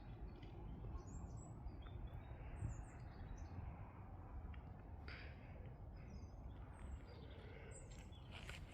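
Birds chirping outdoors: scattered short high calls throughout, over a low steady rumble.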